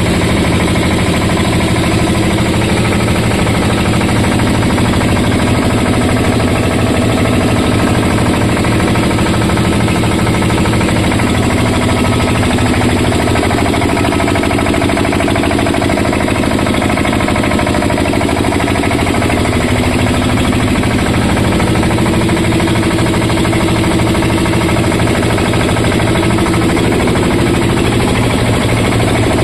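10 hp diesel engine driving a Raja 108 mini rice mill, running steadily with a fast, even beat.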